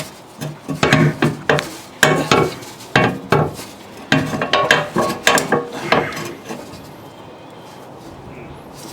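Metal clanking and rattling as an exhaust pipe is worked off its rubber hangers, a string of short knocks that stops about six seconds in.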